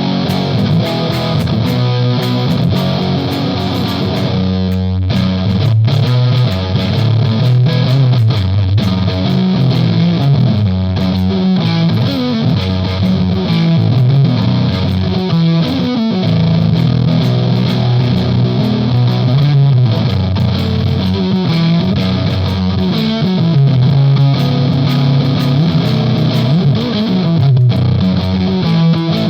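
Electric guitar played through an EarthQuaker Devices Palisades overdrive pedal with Gain B and the boost on and the bandwidth at 5, playing a blues shuffle riff in a heavy, fuzz-like distorted tone.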